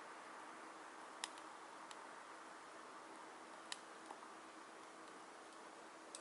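Small wood fire burning in a Solo Stove Titan fire pit: a faint steady rush of flame with a few sharp crackles from the burning wood, the loudest about a second in and midway through.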